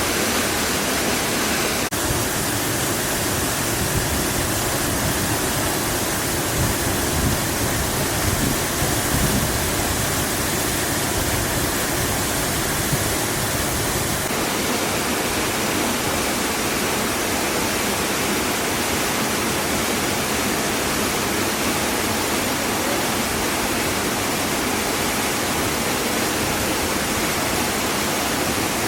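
Steady, loud rushing of a waterfall close by. Its tone shifts slightly twice, about two seconds in and about halfway through.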